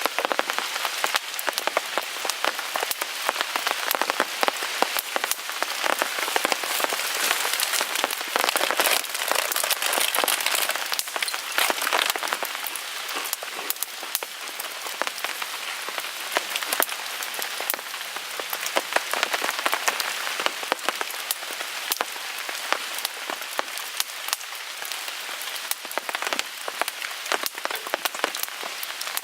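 Steady rain pattering on a tarp overhead, dense with sharp drop clicks, mixed with the crackle of a wood fire burning in a Picogrill 398 fire pit.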